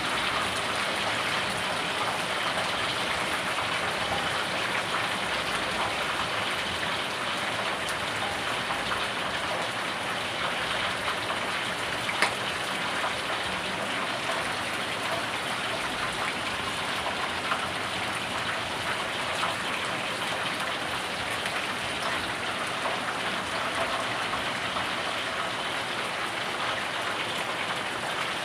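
Whole chicken deep-frying in hot oil: a steady sizzling hiss with many small crackles and pops throughout.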